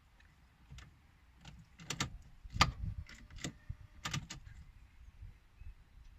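A run of about eight irregular sharp clicks and clunks over some three seconds from a Peugeot 1007 that won't start on a dead battery.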